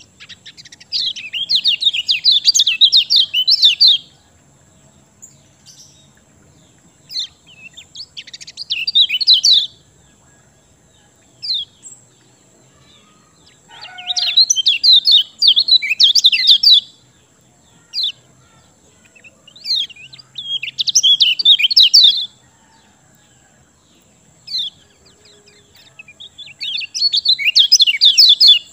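Kecial kuning songbird singing its 'ciak' song: five bursts of rapid, high chattering notes, each a couple of seconds long, about every six seconds, with single short chirps in between. A faint steady high whine runs underneath.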